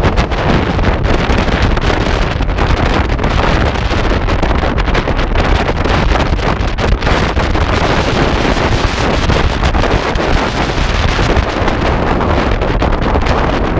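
Loud, steady wind buffeting the microphone, a dense rumble with no let-up.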